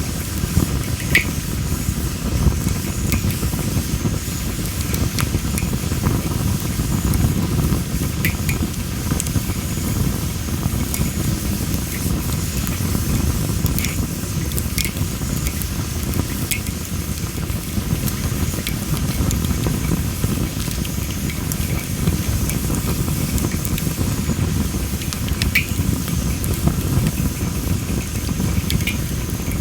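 Wood fire of well-dried masaki (Japanese spindle tree) logs burning, with a steady low rush of flame and scattered sharp crackles and pops every few seconds.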